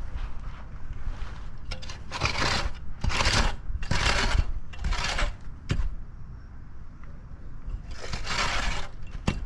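Repeated scraping in loose asphalt millings, about five half-second strokes with pauses between, and a few short knocks. A steady low rumble runs underneath.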